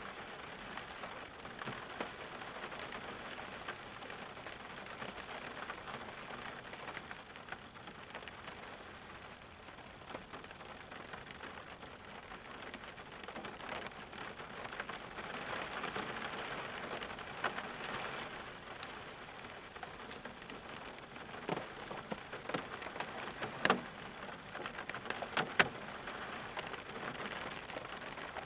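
Steady rain falling, a constant patter with scattered single drop hits; a few louder, sharper drops stand out in the last third.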